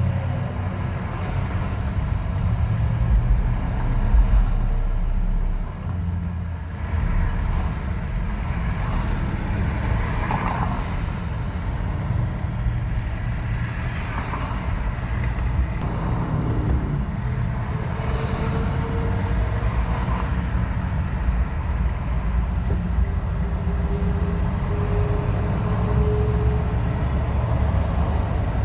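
Road vehicle noise: a steady low engine and road rumble, with a couple of faint brief higher tones partway through.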